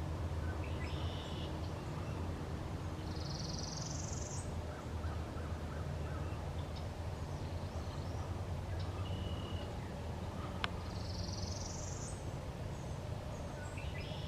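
Songbirds singing in spring woods: twice, a high buzzy song rising in pitch, with a few short chirps between, over a steady low rumble. One sharp click about ten seconds in.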